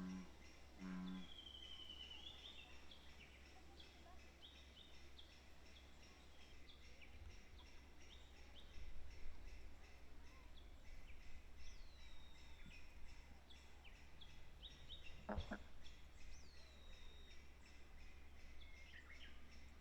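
Faint pond-side birdsong: many short high chirps and a few descending whistles from small birds over a steady low rumble. Two short low notes come in the first second, and a single sharp knock about fifteen seconds in.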